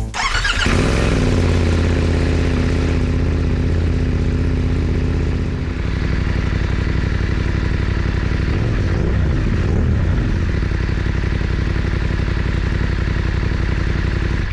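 BMW F900 GS parallel-twin engine running steadily through a new SC-Project exhaust with the resonator box removed. The revs rise and fall briefly about nine seconds in.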